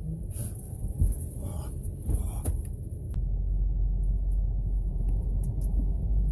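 Low rumble of a Yukon XL SUV, with a few knocks in the first half, settling into a steady, louder low drone from about three seconds in.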